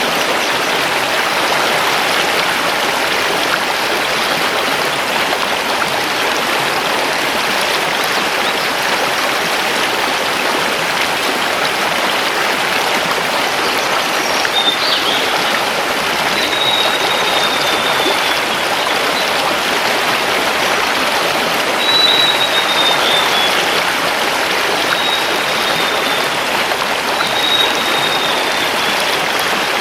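River water rushing steadily over stones. From about halfway through, a forest bird gives a series of short, high calls that fall slightly in pitch.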